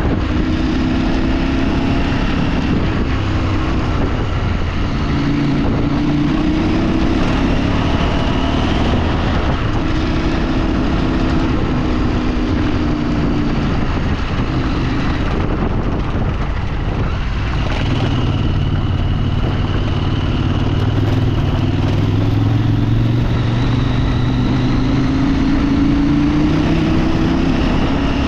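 A vehicle engine running while driving off-road, its pitch climbing for a few seconds and then dropping back again and again as it is revved and shifted through gears, over constant wind and road noise.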